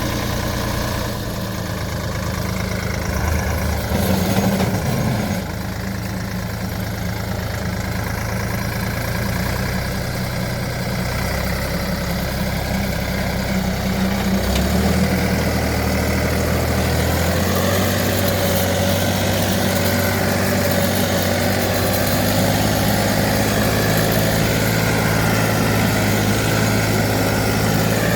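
Diesel engine of a Same Minitaurus 60 tractor running steadily, its low engine note shifting a little a few times.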